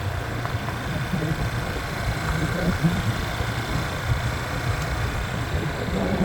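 Motorbike engine running steadily while riding, with a constant low rumble.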